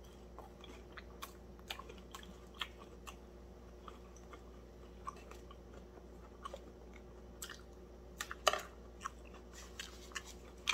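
A person chewing crispy breaded fried fish with closed lips: scattered small crunches and mouth clicks over a faint steady hum, the loudest crunch about eight and a half seconds in.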